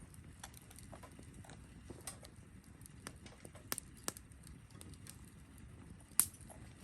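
Wood campfire crackling: scattered sharp pops and snaps over a low steady rush of flame, the loudest pop near the end.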